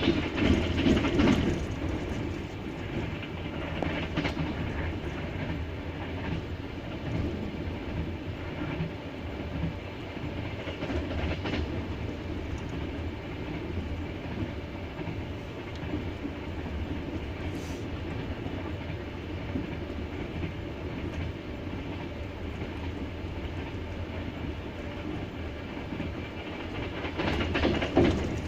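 Double-deck passenger train running, its wheels clattering rhythmically over the rail joints under a steady rumble. It is louder in the first couple of seconds and swells again near the end.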